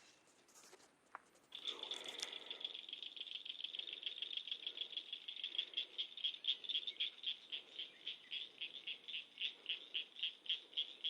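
A small animal calling in a high-pitched, rapid pulsed rattle that starts about a second and a half in and keeps a steady rhythm of about five pulses a second.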